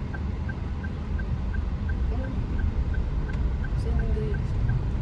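Steady road and engine rumble inside a moving car, with a faint high tick repeating evenly about three times a second.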